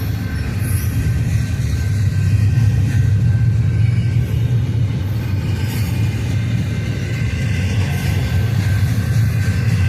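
Freight cars of an intermodal train rolling past: a steady low rumble of steel wheels on the rails, with faint high, steady tones from the wheels over it.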